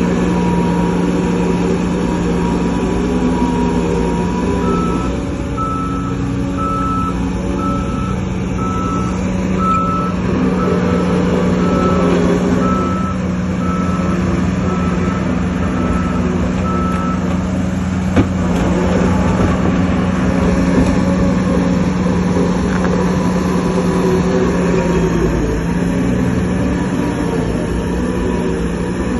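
Heavy diesel machinery running steadily, with a reversing alarm beeping at an even pace for about twelve seconds, starting about four seconds in. A single sharp knock comes a little past halfway.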